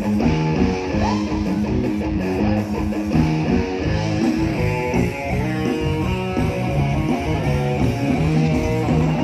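Live band music led by guitar, playing a fast run of notes over bass and a steady beat, with no singing.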